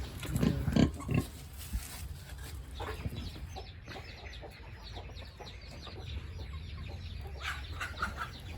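Farm animals calling in a pig barn: a few loud, low grunting calls in the first second or so, then a steady scatter of short, high chirping calls, with a louder cluster about seven and a half seconds in.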